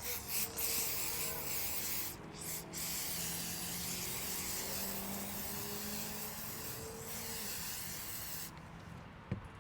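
A pressurised spray hissing in long bursts, with two short breaks about two seconds in, cutting off sharply near the end. A single sharp click follows just after.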